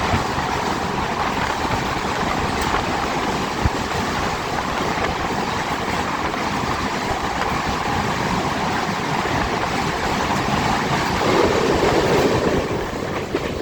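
Passenger train running through a tunnel: a steady, loud rumble and rattle of the carriage closed in by the tunnel walls, swelling a little about eleven seconds in.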